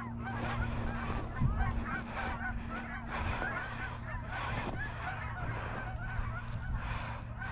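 A flock of Canada geese honking, with many calls overlapping all the way through.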